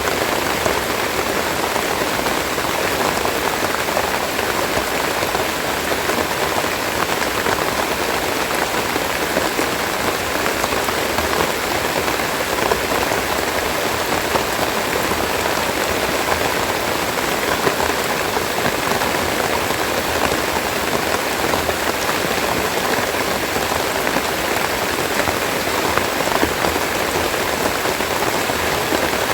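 Steady rain falling, a dense patter of raindrops.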